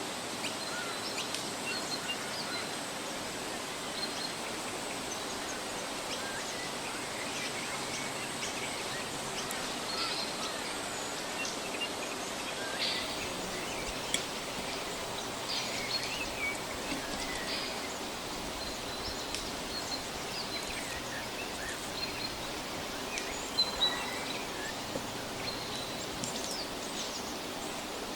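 Forest ambience: a steady hiss with scattered short bird chirps and calls. A sharp click about halfway through and two close together near the end.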